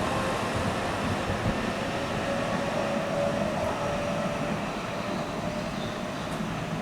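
Keihan electric train running along the elevated track, a steady rumble that slowly fades as it moves away.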